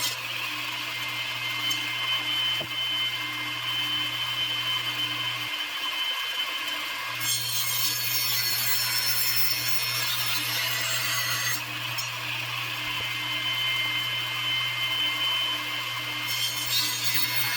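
Electric saw cutting wooden boards, running steadily with a brief dip about six seconds in.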